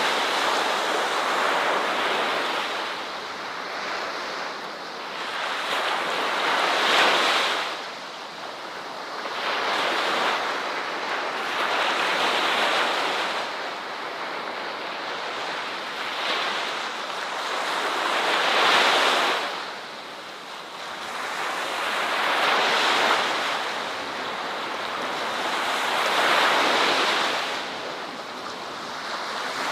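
Ocean waves breaking and washing up a beach, the surf swelling and ebbing every four to six seconds.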